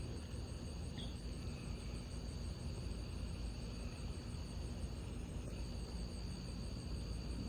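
Insects trilling on one steady high note, which drops out briefly about five seconds in and then resumes, over a steady low rumble.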